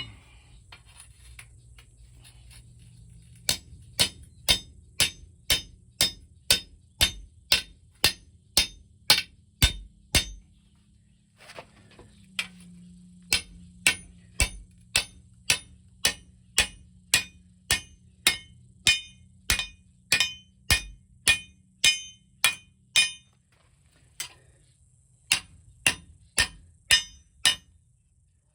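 Hammer blows on metal: three runs of steady, evenly spaced strikes, about two a second, each with a short ringing tone, separated by brief pauses. A faint low hum runs underneath.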